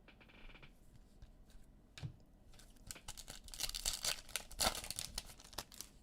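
Trading-card pack wrapper being torn open and crinkled: a dense crackling tear through the second half, after a single knock about two seconds in.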